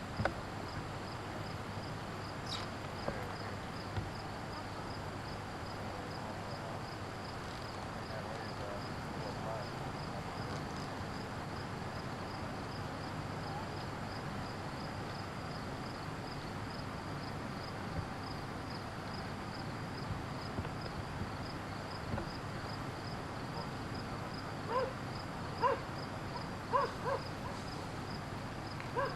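Outdoor ambience with a steady, rapidly pulsing high insect chirping, and a dog barking several short times near the end.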